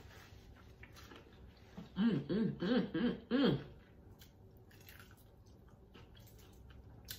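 A person chewing crispy fried chicken wings, with faint crunches. About two seconds in, four short rising-and-falling hummed notes come through a closed, full mouth.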